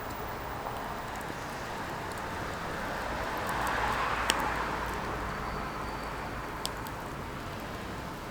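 Firewood burning with a steady hiss and rustle, broken by a few sharp crackling pops, the loudest about four seconds in and another near the end.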